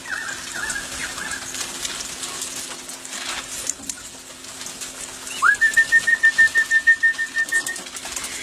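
Bird alarm call: a few short whistled notes, then about halfway through a note that rises and is held at one pitch, pulsing about six times a second for over two seconds. It is the alarm for a raptor, which the listener takes for a wedge-tailed eagle.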